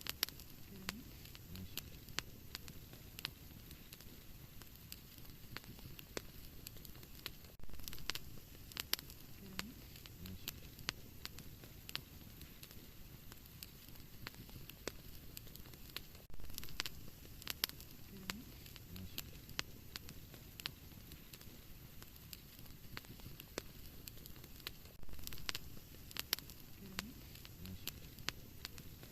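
Fire in a fireplace crackling: a soft hiss with frequent sharp pops and a few louder bursts. The same pattern of pops repeats about every nine seconds.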